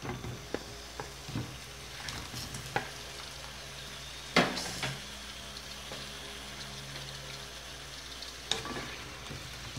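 Fried sweet potato slices sizzling gently in hot oil and caramelized brown sugar in a wok, with several knocks of a wooden spatula against the pan and plate, the loudest about four and a half seconds in.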